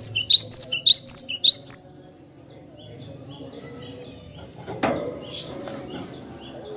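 Cinereous tit (glatik batu) singing: a fast run of about seven loud, sharp repeated notes in the first two seconds, then softer repeated chirps. A single knock sounds about five seconds in.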